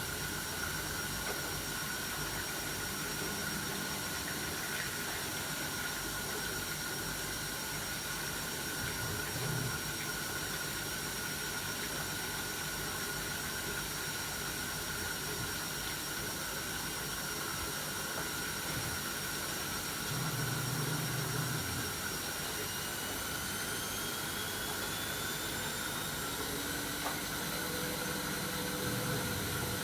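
AEG Öko-Lavamat 73749 washing machine running with a steady motor whine and hiss. A few short low hums come and go. Near the end the whine rises in pitch as the motor speeds up.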